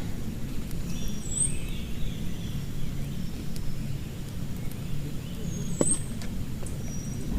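Steady low rush of heavy rain, with a few brief high chirps over it, about three times.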